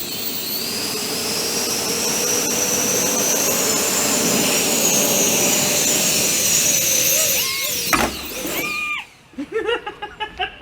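Four 50 mm electric ducted fans of a quadcopter spooling up to a high-pitched whine that rises and then holds steady. The pitch sags and wavers about seven and a half seconds in, then a sharp knock comes about eight seconds in and the fans wind down.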